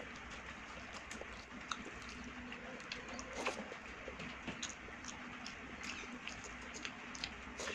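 Close-miked eating by hand: wet chewing and lip smacks while chewing a piece of fried pointed gourd, then fingers squishing rice and dal against a steel plate, heard as many small wet clicks over a steady hiss.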